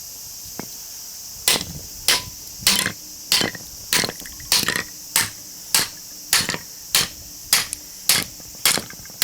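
Hammer striking a cold chisel driven into the laminated iron core of a small transformer: about a dozen sharp blows at a steady pace, a little under two a second, starting about a second and a half in. A steady high insect chirring runs underneath.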